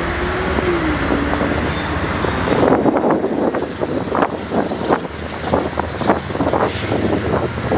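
Freight train switching in a rail yard: a steady rumble, then from about three seconds in a quick run of irregular knocks and clatter.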